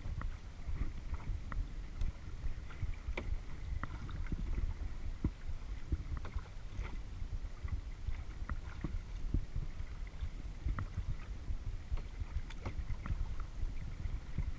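Kayak paddling: water splashing and dripping from the paddle blades in many small scattered clicks and drips, over a low rumble of wind on the microphone.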